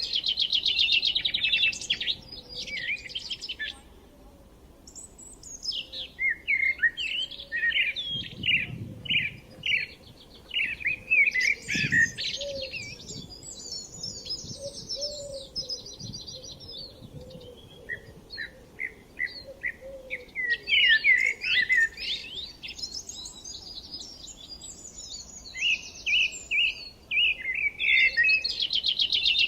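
Several songbirds singing and chirping at once: fast buzzy trills and short repeated chirps overlap at different pitches, with a brief lull about four seconds in.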